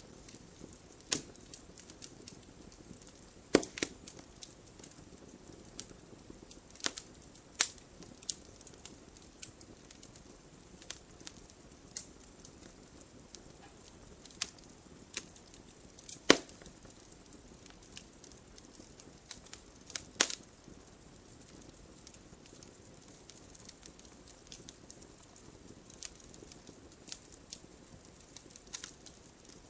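Wood fire crackling: irregular sharp pops and snaps over a soft hiss, with a few louder pops spaced several seconds apart.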